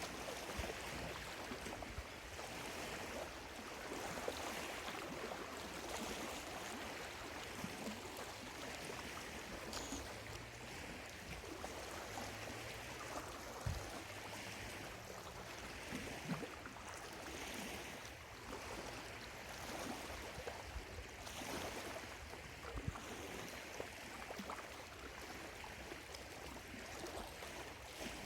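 Small lake waves lapping at the shoreline, washing in and easing off every couple of seconds with little splashes.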